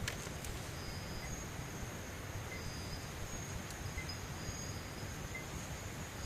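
Night insects calling in short, repeated high-pitched trills over a steady forest hiss, with a few faint crackles of an armadillo walking through dry leaf litter.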